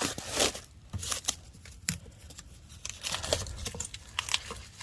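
Plastic packaging wrap rustling and crinkling as it is handled and pulled at, in a string of irregular crackles with a few sharper clicks.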